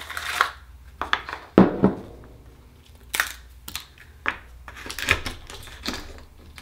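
An akoya pearl oyster being opened by hand: a string of irregular sharp clicks, cracks and scrapes of shell and tool as the oyster is pried open and searched for its pearl.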